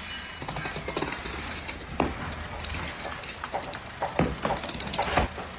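A rapid, irregular series of sharp knocks and clicks, a metallic-sounding clatter, that stops about five seconds in.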